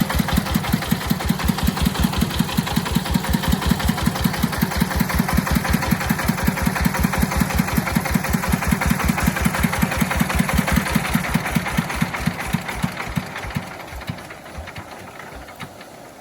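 Agricultural vehicle's engine running with a steady, rapid chugging of about five beats a second. The beats slow and die away about 13 to 14 seconds in as the engine shuts down.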